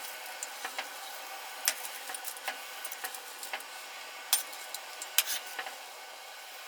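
Campfire crackling: irregular sharp pops and clicks of burning wood over a faint steady hiss.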